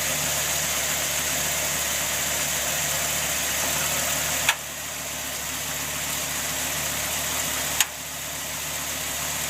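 Dodge Ram SRT-10's 8.3-litre V10 idling steadily, with two sharp clicks about four and a half and eight seconds in. This is the knocking noise the owner traced to the exhaust and catalytic converters.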